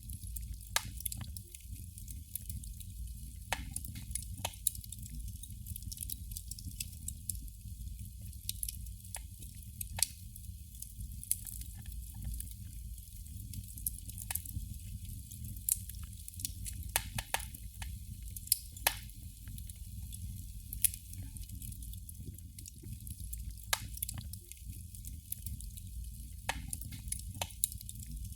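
Candle flame crackling: irregular sharp little pops and clicks, sometimes several in quick succession, over a faint steady hiss.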